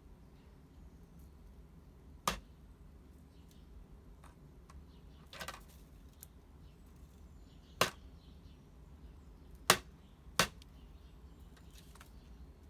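Hooded crow's beak striking a plastic dog puzzle box: four sharp, separate knocks spread over the stretch, with a short scraping rattle between the first and second.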